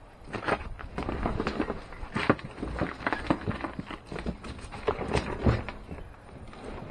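Irregular knocks, bumps and thumps as a large empty water softener tank is handled and moved into place, with footsteps and wind rumbling on the microphone.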